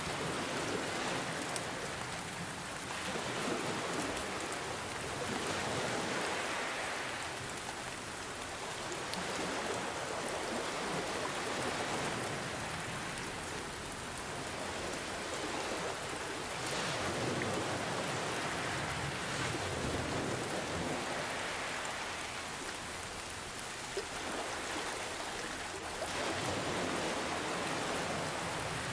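Steady rain falling, mixed with ocean waves that swell and ease every few seconds.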